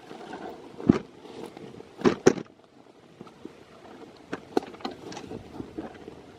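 Scattered sharp thuds and clicks, the loudest about a second in and a close pair just after two seconds, then fainter clicks around four to five seconds, over a steady low hiss.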